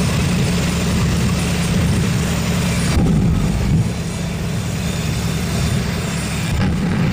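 A large vehicle engine running steadily: a continuous loud rush with a low hum underneath. It drops a little in level about four seconds in.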